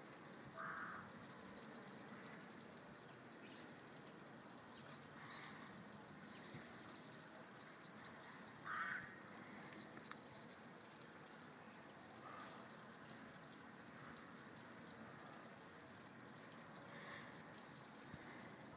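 Faint outdoor ambience with scattered distant bird calls: thin high chirps throughout and five short, harsher calls, the loudest about nine seconds in.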